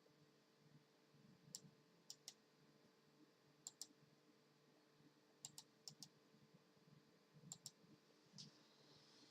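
Light, sharp clicks tapped out in pairs and threes, about a dozen in all, over a faint steady hum.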